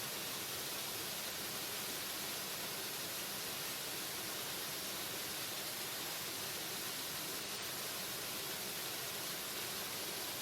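Waterfall: a steady, unbroken rush of falling water with a strong hiss in the upper range.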